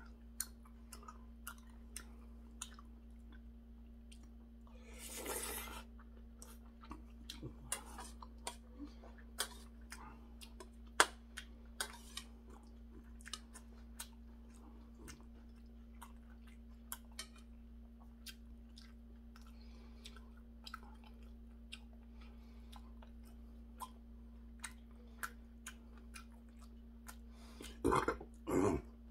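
A person chewing a mouthful of seonji gukbap, with many sharp clicks scattered throughout. There is a breathy sound lasting about a second about five seconds in, and two louder short mouth sounds near the end, all over a steady low hum.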